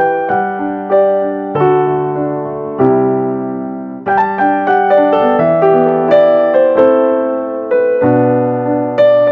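Background piano music: soft chords and a melody of struck notes, each ringing and fading, played at a steady, unhurried pace.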